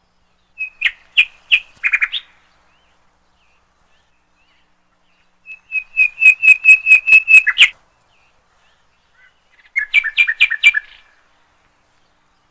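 A bird chirping in three short bursts of quick, repeated notes, the middle burst the longest.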